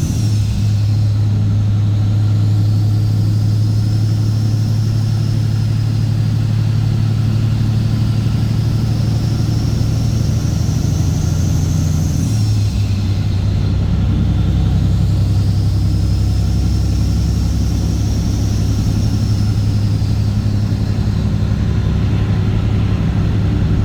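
Straight-piped Cat C15 Acert inline-six diesel in a Kenworth W900 running under load on the road, its exhaust note changing pitch abruptly once about halfway through, as at a gear change. A high whistle rises and falls above the engine between the changes.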